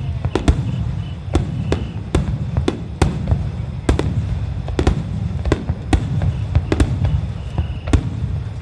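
Dense barrage of aerial fireworks shells in a star mine finale: sharp bangs going off irregularly, about two to three a second, over a continuous deep rumble.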